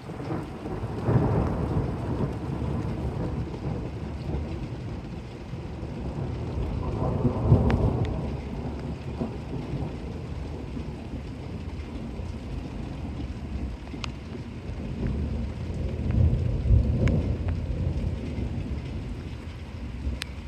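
Thunder rumbling over steady rain, with three low rolling peaks: about a second in, near the middle, and toward the end. A few sharp drop ticks stand out over the rain.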